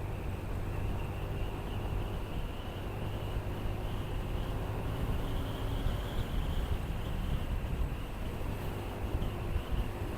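Motorcycle engine running steadily at cruise, with wind rushing over the helmet-mounted action-camera microphone.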